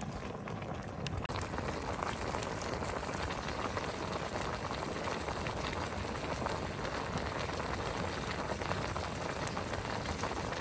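Steady sizzling of food frying in hot oil in a cooking pot, with fine crackling throughout; it cuts off suddenly at the end.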